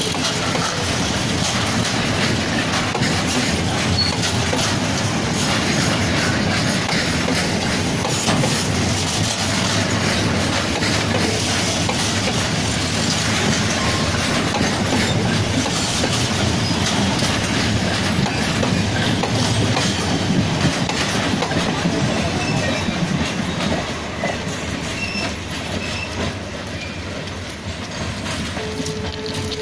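Freight train of loaded flat wagons rolling past close by: steady noise of the wagon wheels running over the rails, easing off a little near the end as the last wagon and brake van go by.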